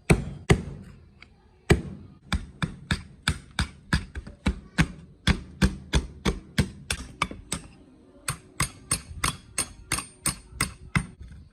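Hammer striking metal: two blows, a short pause, then a steady run of about three strikes a second. The later strikes ring brighter.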